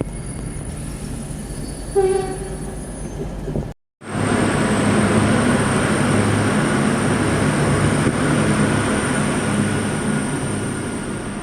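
V/Line passenger train running on the rails with a steady rumble, and a short pitched tone about two seconds in. After an abrupt break just before four seconds, louder rail running noise follows, with a low hum and a thin high whine, easing a little near the end.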